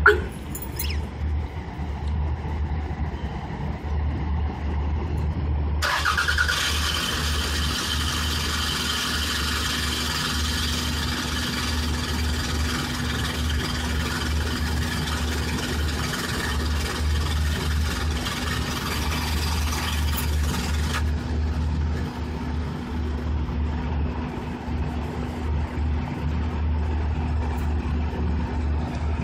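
A Toyota Camry engine being remote-started: a short sharp sound at the start, then about six seconds in the engine catches with a sudden rush of noise and settles to a steady idle hum. A brighter, hissier layer over the idle drops away about fifteen seconds later.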